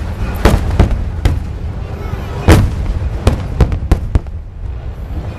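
Aerial fireworks shells bursting: a run of sharp bangs over a continuous low rumble, the loudest about two and a half seconds in, then a quick cluster of cracks around four seconds in.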